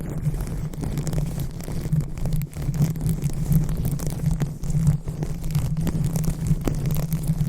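Fingers rubbing and massaging a microphone: a close, muffled low rumble with a constant scatter of small crackles.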